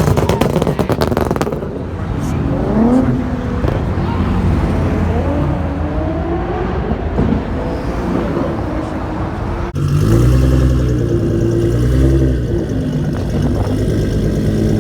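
Modified car engines revving and idling, with people talking among them. About ten seconds in, a cut switches to a single engine revving up and down close by.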